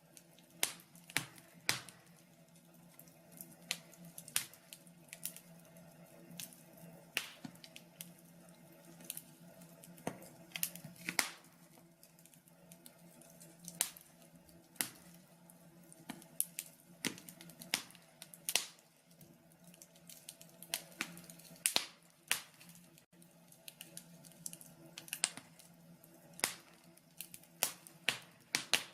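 Wood fire in a log burner crackling, with irregular sharp snaps and pops, some in quick clusters, over a faint steady low hum.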